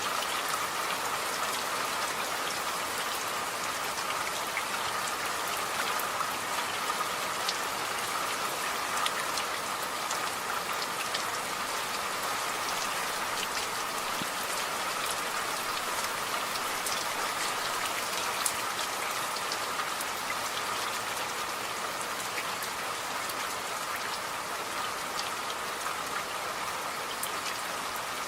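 Steady rain falling, a continuous hiss with many individual drops ticking sharply here and there.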